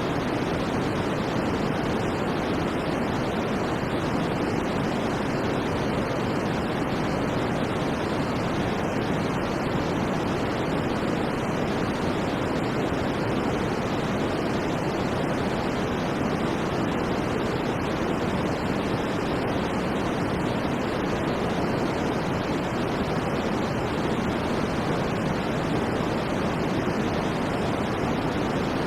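Steady white noise played as a sleep sound: an even, unchanging rushing hiss, fuller in the low and middle range than in the highs.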